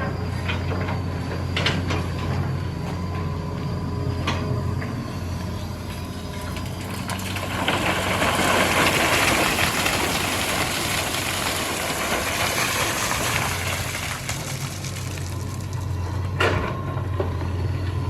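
Hitachi EX200 excavator working: its diesel engine runs with a steady low drone and a thin high hydraulic whine. A few sharp metallic knocks come through, and a long rushing noise swells in the middle and fades out.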